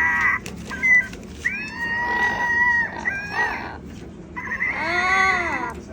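A parrot making a series of drawn-out, nasal grumbling calls while playing with a ball. The longest calls come in the middle and near the end, the last one rising and falling in pitch.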